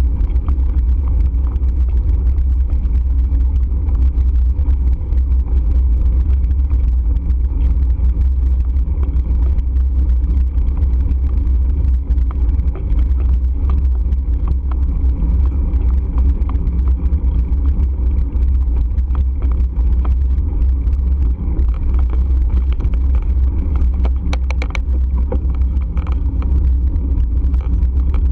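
Steady, loud low rumble of wind buffeting the microphone and road noise during a ride on the move. A brief high-pitched sound comes in about three-quarters of the way through.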